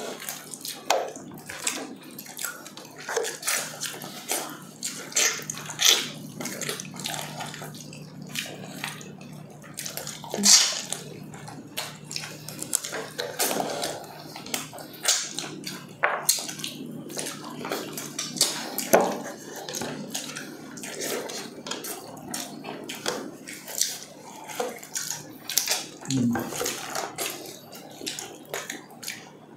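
Close-up wet chewing and lip-smacking of two people eating braised pork leg with potatoes by hand: a steady run of irregular sticky smacks and squelches.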